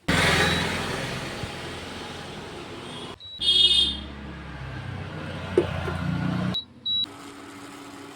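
Repaired induction cooktop running: a steady fan-like hum with a noisy rush. Electronic beeps from its control panel come about three and a half seconds in and twice briefly near seven seconds.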